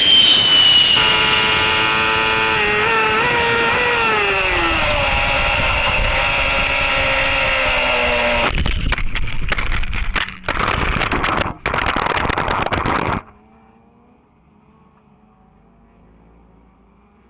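Racing motorcycle engines at high revs, the pitch climbing and dropping with the throttle and gear changes. This gives way to several seconds of loud rushing noise broken by brief gaps, which cuts off suddenly about thirteen seconds in, leaving only a faint background.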